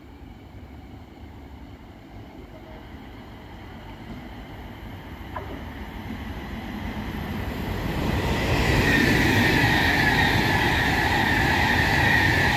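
A train approaching and running past, its rumble building for about eight seconds. A high whine then comes in, drifting slightly down in pitch as the train goes by.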